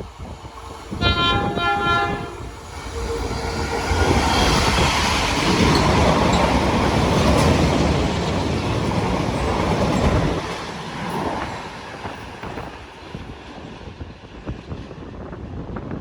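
A diesel train sounds a brief horn blast, then passes at speed with a loud rush of wheel and engine noise that fades after about ten seconds.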